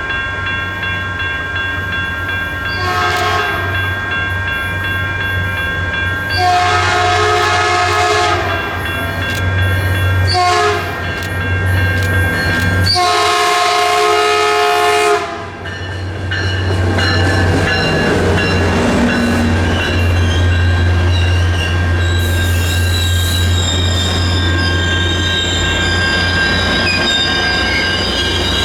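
Caltrain diesel locomotive's horn sounding the grade-crossing signal: long, long, short, long. The locomotive's engine drone and the wheels on the rails follow as the train passes, with a high wheel squeal coming in near the end.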